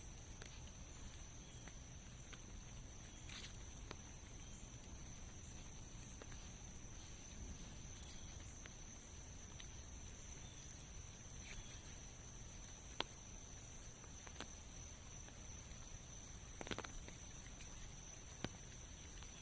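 Faint rainy-forest ambience: scattered drips and ticks over a low rumble, with a steady high-pitched whine throughout.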